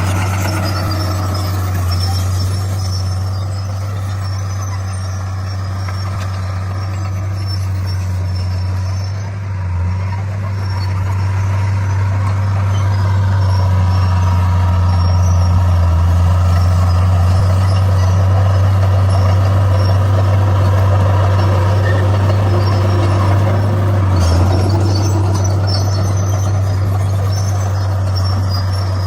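D41 bulldozer's diesel engine running steadily under load, getting somewhat louder about halfway through.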